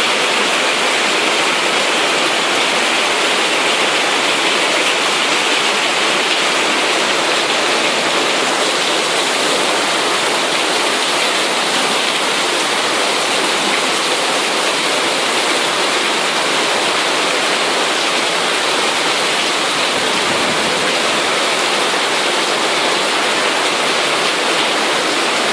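Heavy rain pouring down in a rainstorm, a loud, steady downpour.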